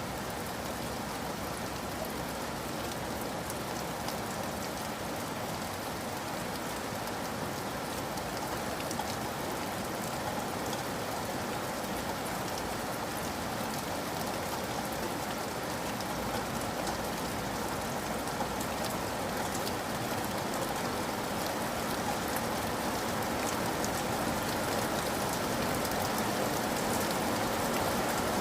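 Steady rain falling, a dense hiss of drops pattering on surfaces, growing slightly louder toward the end.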